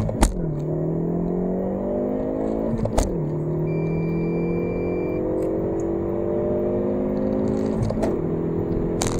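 Hyundai i30 N Fastback's 2.0-litre turbocharged four-cylinder heard from inside the cabin, accelerating hard at full throttle after a launch-control start. The revs climb steadily, then drop with a sharp crack at each quick upshift, just after the start, about three seconds in and again near the end.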